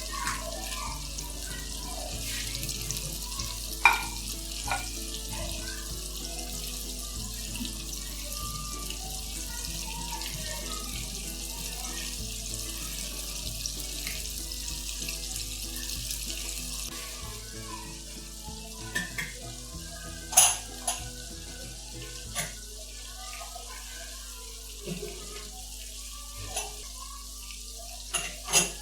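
Chicken fillets frying in hot oil: a steady sizzle with scattered sharp pops and crackles, a little quieter in the second half.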